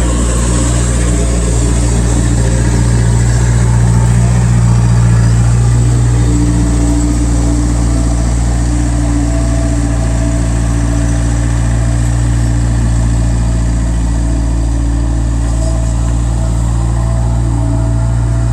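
Bobcat 763 skid steer's diesel engine running steadily as it moves around to pick up the grapple, with a slight rise in engine speed about four to six seconds in.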